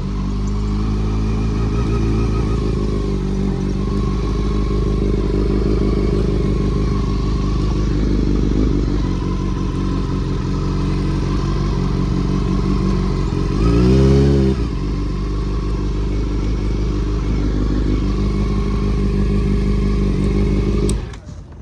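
Honda CBR400RR's inline-four engine running steadily at low revs, with one brief rev that rises and falls about two-thirds of the way through. The engine cuts off suddenly near the end.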